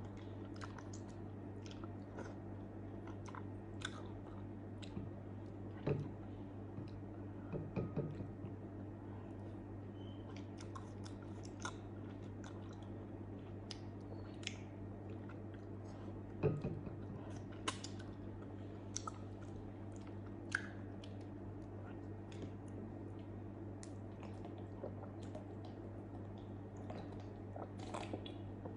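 Close-up mukbang eating sounds: a person chewing soft grilled eggplant with many small wet mouth clicks and a few louder bites, over a steady low electrical hum.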